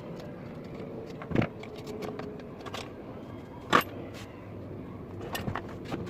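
Scattered clicks and knocks from hand work on metal parts, with two louder knocks about one and a half and four seconds in, over a steady background hum.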